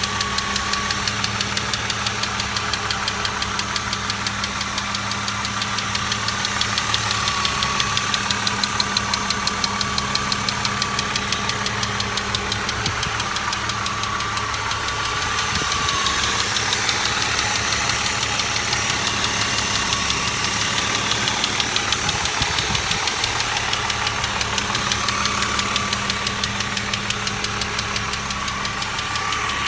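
BMW S52 inline-six idling smoothly with a rapid, steady ticking from the top of the engine, which appeared after a VANOS rebuild; the owner fears a bent valve.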